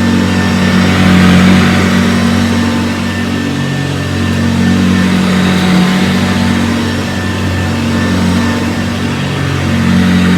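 Vintage Hoover Convertible U4005 upright vacuum running on carpet: a steady motor hum with the brush roll turning. It swells and eases every few seconds.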